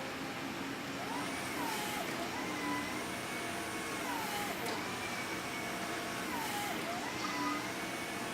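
Electric reach truck (Crown RD 5200) motor whine over a steady hum, the pitch repeatedly dropping and rising again every couple of seconds as the motors speed up and slow down.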